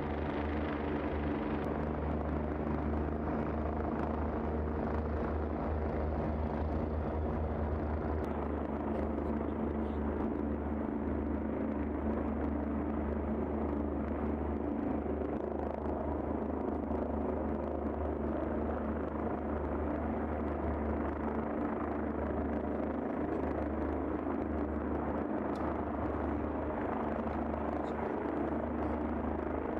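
Helicopter's engine and rotor drone running steadily.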